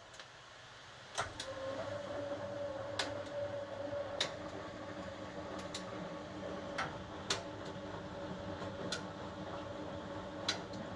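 1980 HUWA Automatic Standard 4 washing machine running: after a sharp click about a second in, a steady humming tone sets in and holds, with scattered clicks every second or so.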